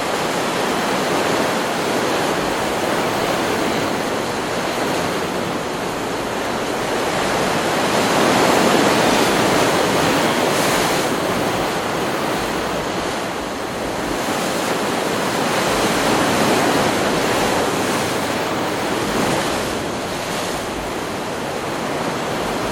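Ocean surf: a continuous rush of breaking waves and washing water, swelling louder and easing off as successive waves come in.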